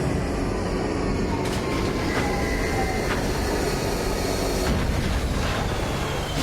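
A steady, dense low rumble, like a large vehicle or engine, with a few brief hissing bursts over it.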